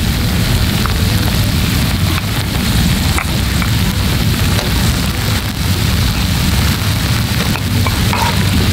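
Steady noise of rain with wind, with a heavy low rumble underneath.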